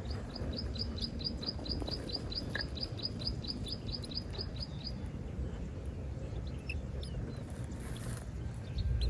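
A bird calling in a rapid series of short, high chirps, about five a second for nearly five seconds, then a few scattered single chirps, over a steady low rumble.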